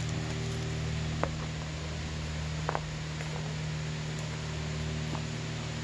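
Steady rushing of a distant waterfall with a low hum under it, and a few faint snaps of footsteps on the dirt slope.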